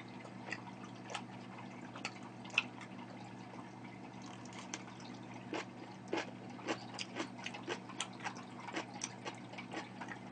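Soft, wet chewing and mouth clicks of someone eating close to the microphone: a scattering of small moist smacks, coming more often from about halfway through.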